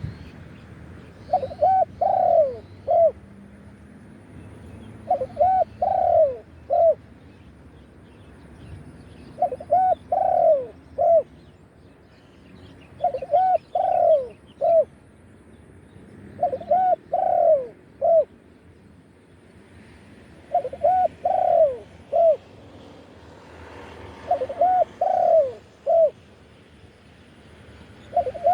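Spotted dove singing its cooing song: a short phrase of several arching coos, repeated regularly about every four seconds.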